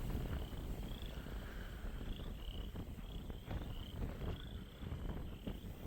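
Insects chirping outdoors: short, repeated high chirps about two a second, over a low rumble.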